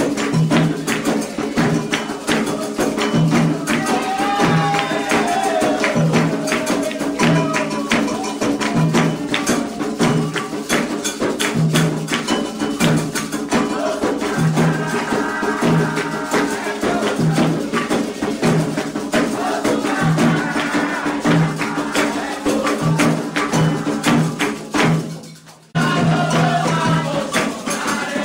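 Candomblé ritual drumming: atabaque drums and an iron agogô bell keep a steady, dense rhythm, with voices singing a chant over it. The sound cuts out for a moment near the end, then resumes.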